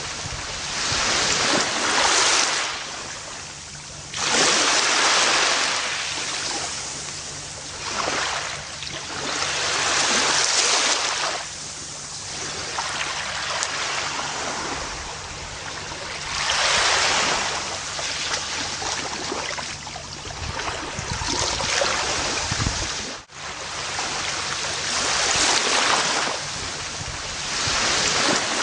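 Gentle ocean waves breaking and washing up a beach, a fresh surge every few seconds followed by the hiss of water draining back. There is a split-second drop-out about three-quarters of the way through.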